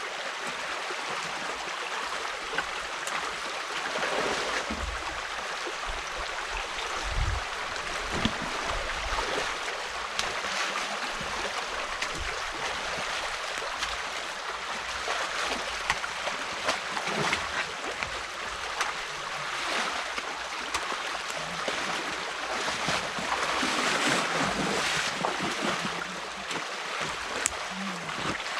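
Stream water running through a breach in a beaver dam, a steady rush with scattered splashes and a few low knocks.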